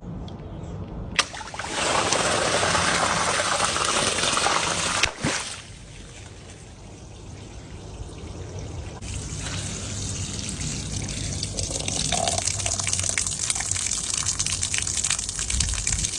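Liquid pouring, with a sharp click about a second in, then a loud pour for about three seconds that stops suddenly. A quieter trickle builds up again over the rest.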